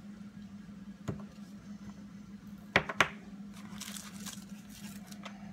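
Craft supplies being handled on a table: a soft knock, then two sharp clicks about a quarter second apart, then a brief rustle of paper, over a steady low hum.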